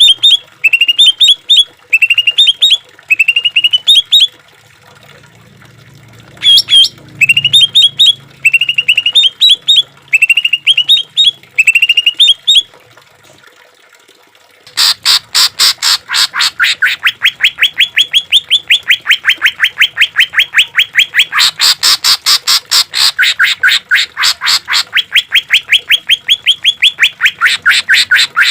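Green leafbird (cucak ijo) singing: short phrases of quick rising chirps repeated about once a second, then after a brief pause a fast, unbroken rattling series of sharp notes, about five a second.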